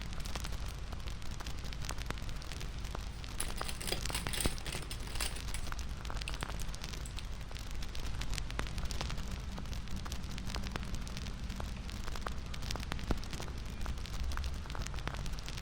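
Wood fire crackling steadily over a low rumble of flames, with sharp pops scattered throughout and a quick flurry of them about four seconds in.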